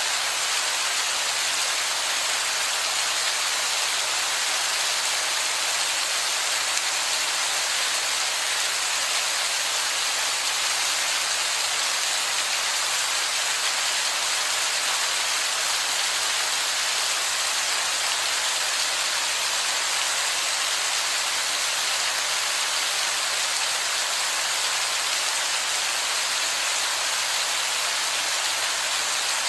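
Rain falling onto wet rock: a dense, even hiss that holds steady throughout.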